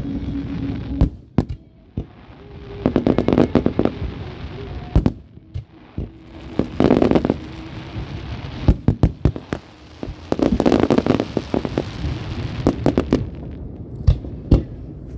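Fireworks going off: scattered sharp bangs, with three bursts of dense crackling about 3, 7 and 11 seconds in.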